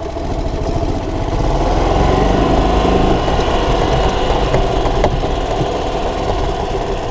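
Gas engine of a 1993 Club Car golf cart idling steadily with the accelerator released. It keeps running rather than shutting off because the pedal shut-off has been bypassed. It gets a little louder about two seconds in.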